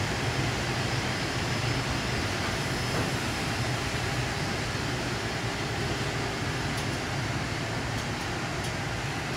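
Loaded container wagons of a freight train rolling slowly past, a steady rumble of wheels on rail that gets a little quieter as the train slows.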